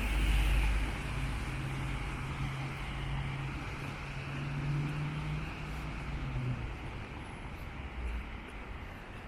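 Traffic passing on a wet city street: a vehicle's low engine hum that stops about six and a half seconds in, over a steady hiss of rain and wet road.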